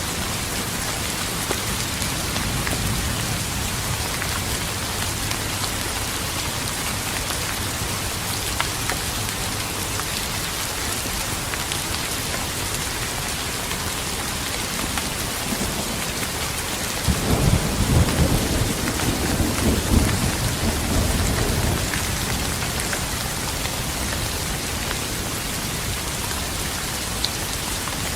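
Steady rain, with a roll of thunder that rumbles up suddenly about two-thirds of the way through and fades over several seconds.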